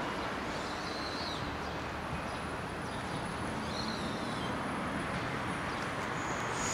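Distant yellow electric commuter train approaching on the track, a steady low rumble that grows slightly louder near the end. A bird chirps briefly twice over it.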